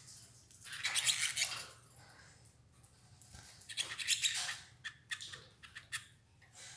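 Caged canaries feeding on escarole: crisp rustling and pecking clicks. Two longer rustles come about a second in and about four seconds in, with no clear song.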